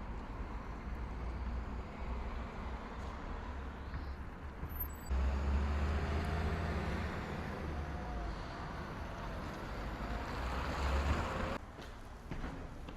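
Low, steady rumble of a heavy vehicle passing, jumping louder about five seconds in and dropping away abruptly near the end.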